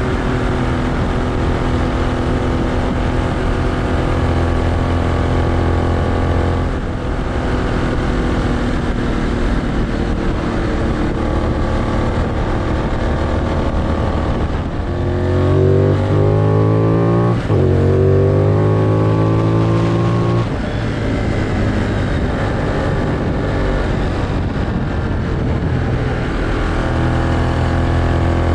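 Benelli 752S parallel-twin engine running on the move, mostly at a steady speed. About halfway through it pulls up in pitch twice, with a quick drop between the two pulls, as it accelerates through a gear change, then settles back to steady running.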